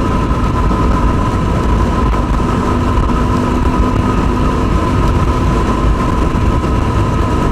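Yamaha WR250R's single-cylinder four-stroke engine running steadily while riding, under a dense, even rush of wind and road noise on the bike-mounted microphone.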